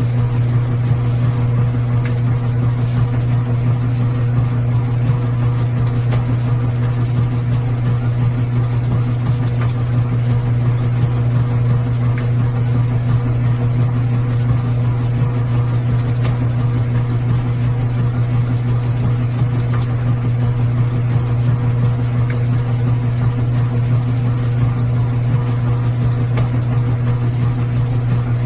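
Washing machine running: a steady low hum that holds an even level throughout.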